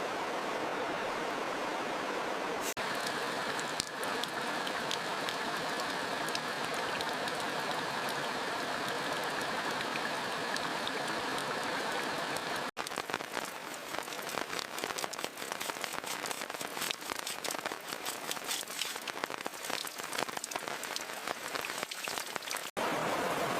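Heavy rain falling steadily. About halfway through it cuts to a closer, denser patter of raindrops striking a surface, and it cuts back to a steady rain hiss near the end.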